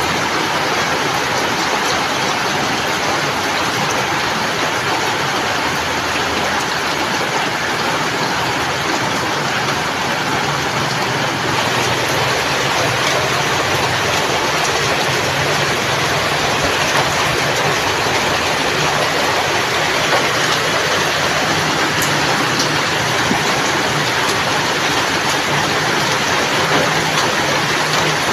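Steady heavy rain, a dense, even hiss of falling water.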